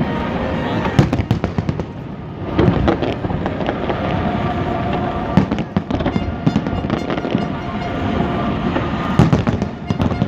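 Aerial fireworks shells bursting in quick, irregular succession, sharp bangs overlapping with crackling and the echo of each blast.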